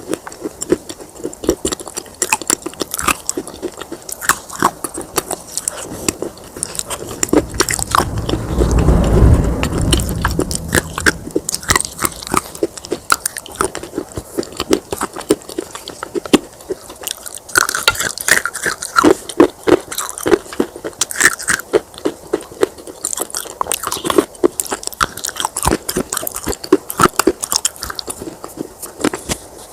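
Baked clay pot pieces being bitten and chewed, giving dense, irregular crunching and crackling throughout. A louder low rumbling swell comes about eight seconds in and lasts a couple of seconds.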